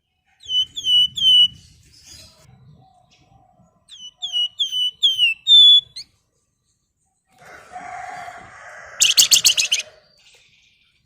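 A flamboyan songbird calling. It gives two runs of short, clear, downward-sliding whistles, four and then about six in quick succession. Then comes a buzzy chatter that ends in a loud, fast, harsh rattle.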